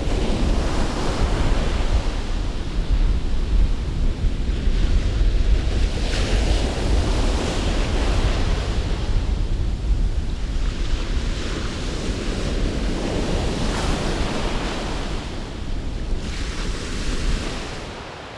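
Sea waves breaking and washing up a beach in surges every few seconds, with strong wind rumbling on the microphone. The sound drops away suddenly near the end.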